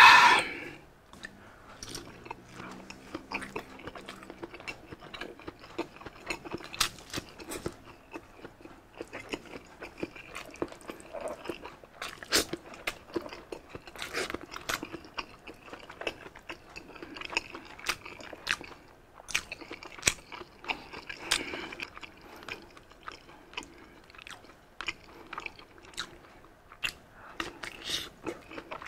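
Close-miked eating: biting and chewing grilled sausage and crispy pork sisig, with many sharp crunches and mouth clicks scattered throughout. A brief loud breathy burst, an exhale after a drink, comes right at the start.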